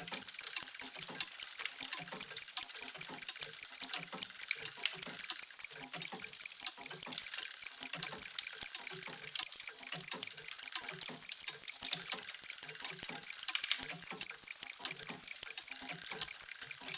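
Many mechanical clocks ticking at once: a dense, uneven patter of overlapping ticks that never settles into one beat.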